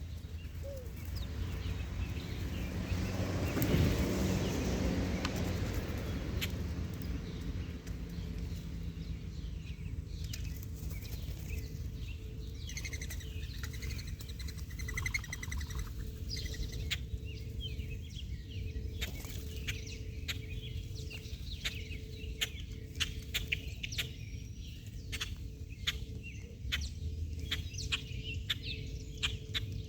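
Birds: a brief flutter of wings a few seconds in, some chirping calls, then a long run of sharp irregular clicks or taps, over a steady low hum.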